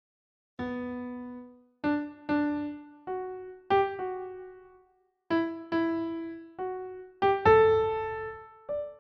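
Slow solo piano melody of single notes, each struck and left to ring and fade, starting after about half a second of silence.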